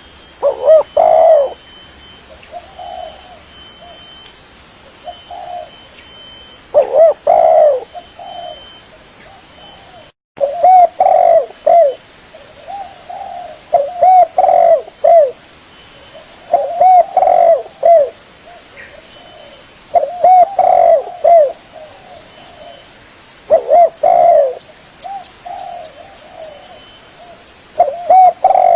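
Spotted dove (tekukur) cooing: loud phrases of several soft, rounded coos, repeated every three seconds or so. The sound drops out for a moment about ten seconds in.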